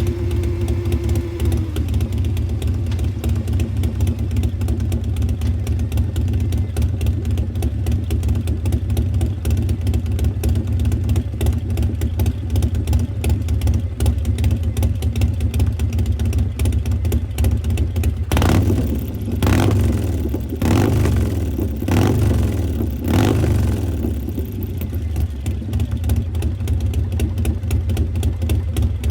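Harley-Davidson Street Glide Special's Milwaukee-Eight V-twin, fitted with an S&S 475 cam and a Burns Stainless 2-into-1 exhaust, idling steadily. About two-thirds through it is revved in several short throttle blips, each rising and falling, then it settles back to idle.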